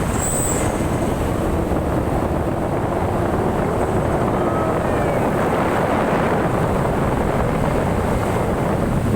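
Truck driving along, its engine and road noise making a steady, dense rumble.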